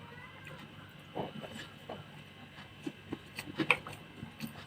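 Close-up eating sounds: scattered wet chewing clicks and crackles. A short faint animal call sounds right at the start.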